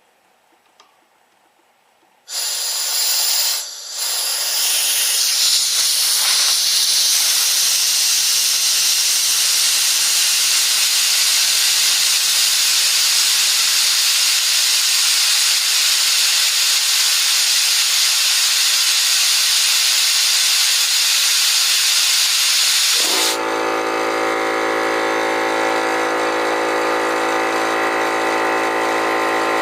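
Compressed air hissing steadily out of an air compressor's tank as it is bled down. About 20 seconds later the hiss stops suddenly and the compressor's motor and pump start and run steadily, cutting in as the tank pressure falls to the switch's cut-in point.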